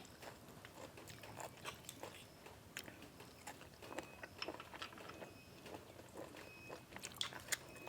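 A person chewing food close to the microphone, with irregular soft crunches and small clicks.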